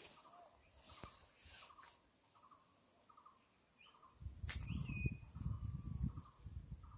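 Outdoor bird calls: one bird repeats a short stuttering call about once every second or less, and a few higher chirps and whistles come in between. About four seconds in, a low rumble on the microphone, the loudest sound here, runs for about two seconds, and a single sharp click comes with it.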